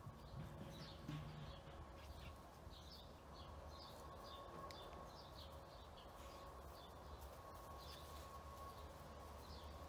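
Faint birds chirping in short repeated notes over a low steady hum.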